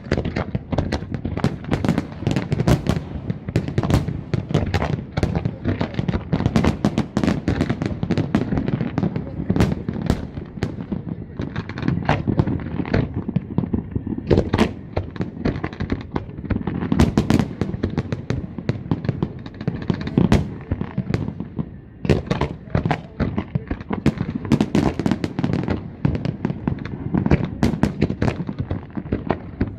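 Aerial fireworks display: a dense, continuous barrage of shell bursts and crackling, with a heavy low rumble and sharp bangs several times a second.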